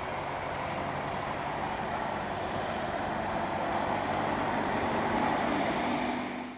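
Canadair CRJ-200ER regional jet's twin General Electric CF34 turbofan engines running: a steady jet noise with a faint hum underneath, growing slowly louder before cutting off abruptly.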